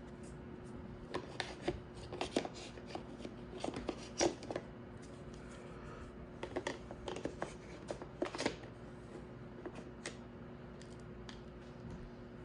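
Hands handling a motorcycle helmet fitted with an intercom: irregular clicks, taps and scraping rubs, with a faint steady hum underneath.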